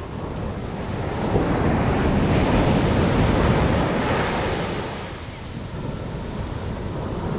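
Ocean surf: a wave breaks and rushes up the beach, swelling about a second in and easing off after about four seconds, with wind buffeting the microphone.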